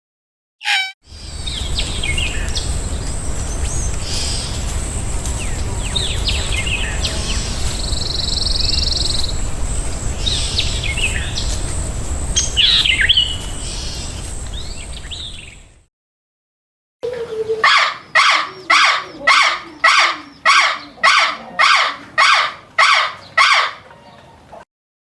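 Small birds chirping now and then over a steady low outdoor rumble. After a brief silence, a bird calls loudly and repeatedly, about two calls a second, for several seconds.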